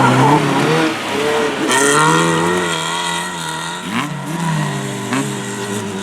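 Rally car engine revving hard, its pitch rising and dropping in steps as it shifts gear. Two short sharp cracks come about four and five seconds in.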